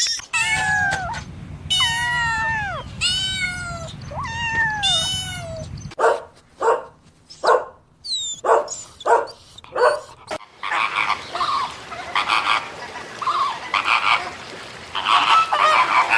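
A run of animal calls in three stretches: several drawn-out calls that fall in pitch, then a string of short sharp calls about two a second, then busier overlapping calls.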